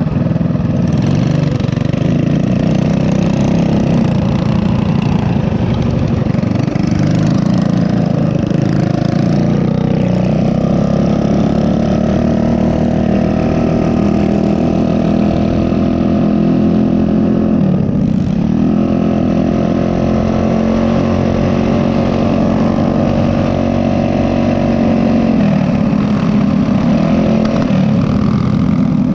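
Small single-cylinder mini bike engine running steadily under way. Its pitch dips as the throttle eases off around ten seconds in, and again more sharply near eighteen seconds, then climbs back.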